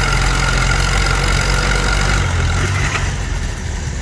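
Farm tractor engine running steadily during a tractor pull, its sound changing and easing off about three seconds in.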